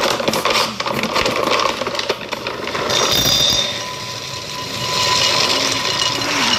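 Raw peanuts rattling in a bowl, a dense run of small hard clicks through the first couple of seconds, then a steady hiss-like noise.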